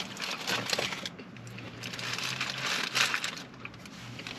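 Close-up eating sounds: a person chewing a mouthful of burger with a soggy bun, in irregular wet, crunching bursts.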